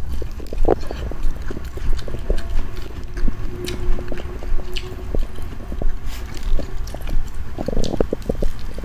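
Close-up biting and chewing of sweet fruit corn on the cob: soft crunches and clicks in a regular rhythm over a low rumble.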